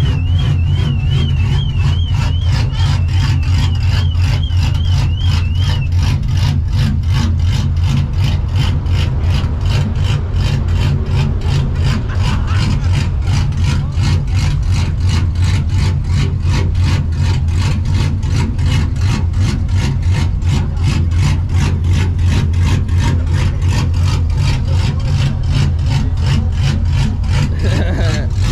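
Straight-piped, Procharger-supercharged Ford 5.4-litre V8 in a 1999 Mustang GT idling or creeping at low speed: a steady, deep rumble with an even, choppy pulse, the lope of its aftermarket camshafts.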